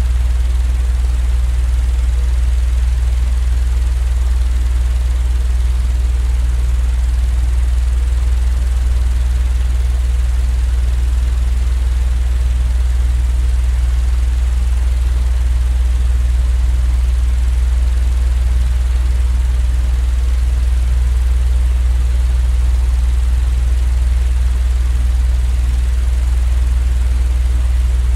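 Steady, unchanging low drone, a deep continuous hum with a faint hiss above it, played as sleep noise.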